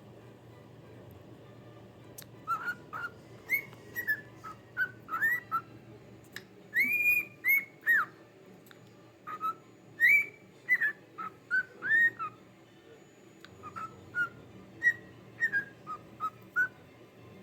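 Pet bird whistling a long run of short chirpy notes, each sweeping up and then down, with a brief pause a little past the middle.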